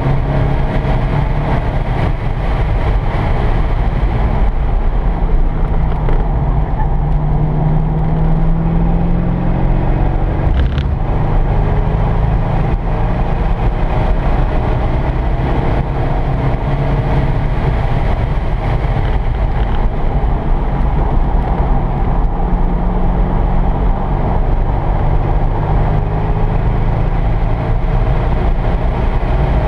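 C5 Corvette Z06's LS6 V8 running hard, heard from inside the cabin, its note climbing several times as the car accelerates through the gears, over steady road and tyre noise. A brief knock about eleven seconds in.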